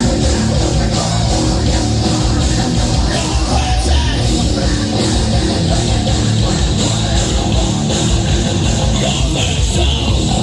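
A heavy metal band playing live and loud with distorted electric guitar, kicking in abruptly at the start.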